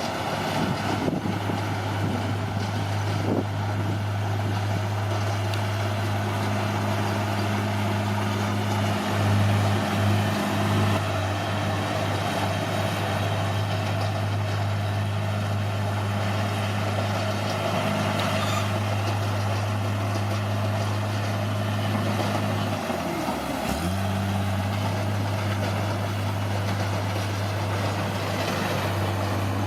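Bulldozer's diesel engine running steadily at a constant speed. About 23 seconds in it briefly sags in pitch and then recovers.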